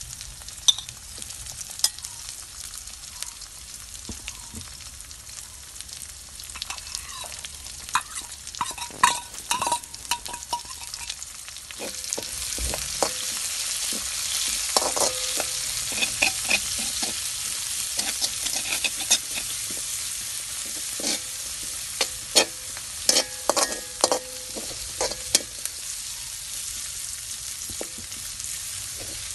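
Chopped onions and curry leaves sizzling in hot oil in a large wok, stirred with a metal spoon that clicks and scrapes against the pan. The sizzle grows louder about twelve seconds in, as the onions fry.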